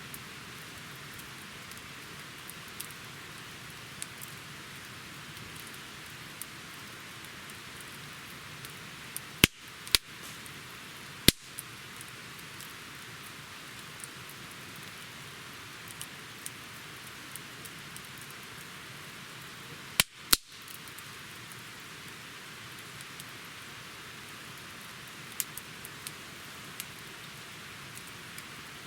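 Wood campfire burning with a steady hiss and scattered small crackles, broken by sharp loud pops of the burning wood: three about ten seconds in and a close pair about twenty seconds in.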